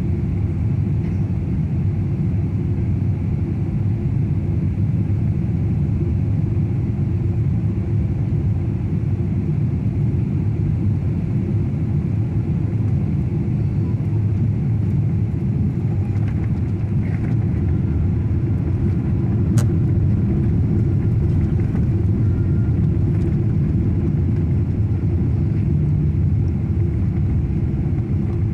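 Steady low rumble of cabin noise inside a Boeing 777-300 airliner during its landing, with one sharp click about twenty seconds in.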